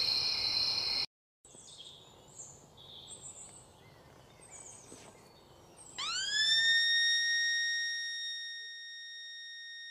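A brief pitched sound in the first second, then birds chirping faintly over a low hiss. About six seconds in, a steady electronic tone swoops up in pitch, holds and slowly fades.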